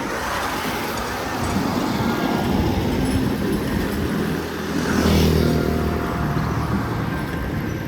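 Steady city street traffic noise, with a motor vehicle passing close and swelling louder about five seconds in.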